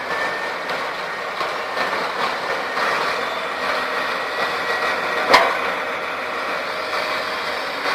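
Diesel engines of heavy earthmoving machines, an excavator and a bulldozer, running steadily, with a single sharp knock about five seconds in.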